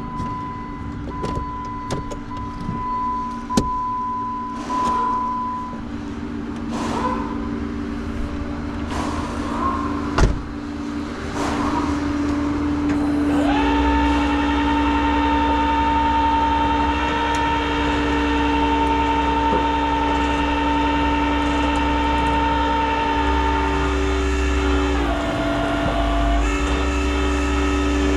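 Vehicle running with a steady droning hum that shifts pitch twice near the end, after a stretch of scattered clicks and knocks.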